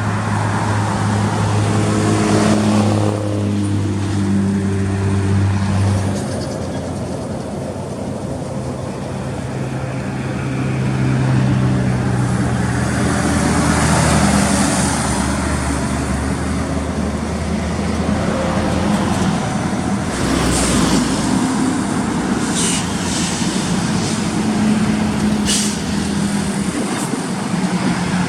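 Heavy diesel truck engine running, its pitch dropping and rising again as the engine speed changes. Several short air hisses come in the last third.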